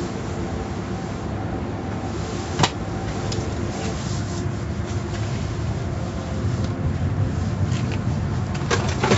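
Car wash machinery running with a steady hum and rumble, with one sharp click about two and a half seconds in and a few more clicks near the end.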